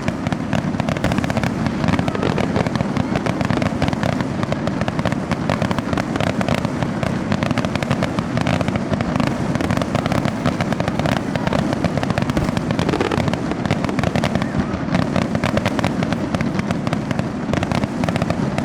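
Fireworks going off in a dense, continuous barrage of overlapping bangs and crackles with no pauses.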